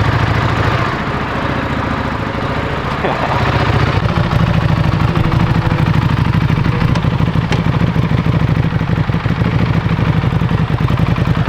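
Buell V-twin motorcycle engine running with a steady low pulse, a little quieter for a few seconds and then louder from about four seconds in.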